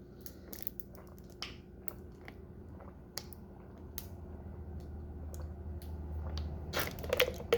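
A person eating at close range: scattered small clicks and taps of chewing and handling food. A low rumble builds through the middle, and a louder cluster of clicks comes near the end.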